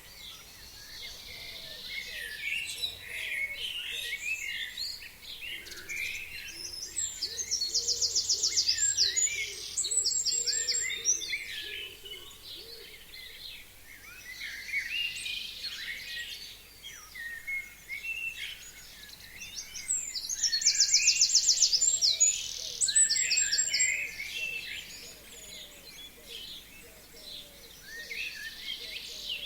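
A chorus of forest songbirds, many short chirps and calls overlapping. Twice, about seven and twenty seconds in, one bird sings a loud rapid trill of a few seconds, the loudest sound here.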